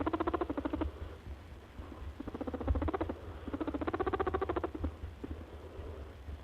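A small animal's fast, pulsed calls in bouts of about a second, three in a row, each a rapid rattle of short notes with quieter gaps between them.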